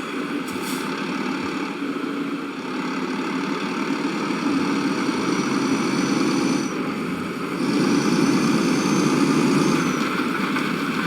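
A motor running steadily, a continuous drone with a faint thin high whine over it for a few seconds in the middle.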